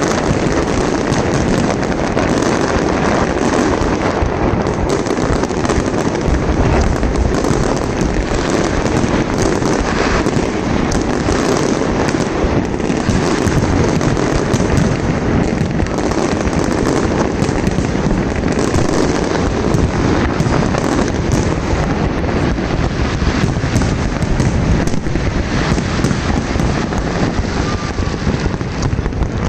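Fireworks display: a dense, unbroken barrage of bangs and crackling with no pause.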